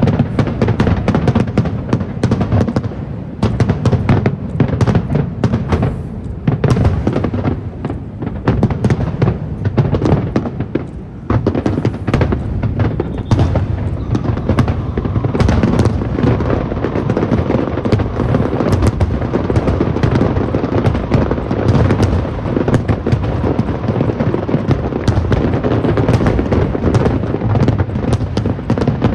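Aerial fireworks bursting in rapid, overlapping bangs over a deep rumble. The bangs thin out briefly about ten seconds in, then merge into an almost unbroken barrage for the second half.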